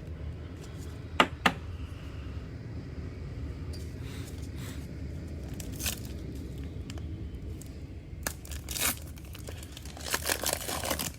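A Panini Mosaic football card pack's wrapper being torn open and crinkled by hand, in several rustling bursts that grow busier near the end. Two sharp clicks come about a second in.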